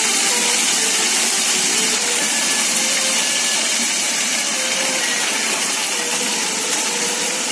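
Concrete truck running steadily during unloading: a loud, even hissing rush of machine noise.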